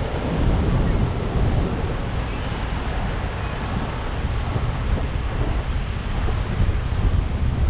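Horseshoe Falls at Niagara: a steady, loud rush of falling water, with wind buffeting the microphone in a low, uneven rumble.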